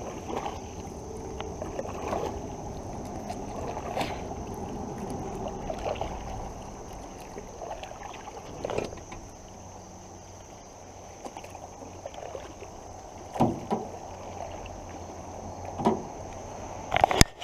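A canoe moving on fast creek water, with a steady wash of water against the hull and a few short knocks against the canoe scattered through it.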